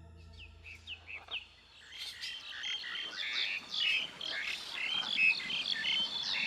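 Rainforest dawn chorus: many birds chirping and calling together, filling in from about two seconds in as a low hum fades out.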